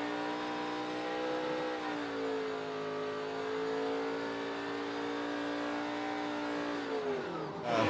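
NASCAR Truck Series race truck's V8 engine held at high revs, dipping briefly around two seconds, then its revs drop near the end as loud tyre noise from the start of the burnout sets in.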